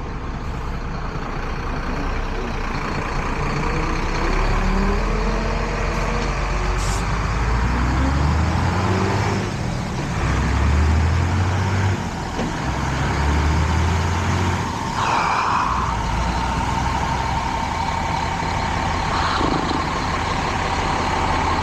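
Heavy truck engine accelerating, its pitch climbing and dropping again several times as it works through the gears, over steady road noise.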